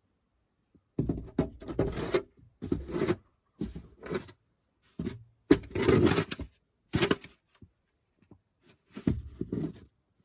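A series of irregular scraping and thumping handling noises, about eight bursts with short gaps between them.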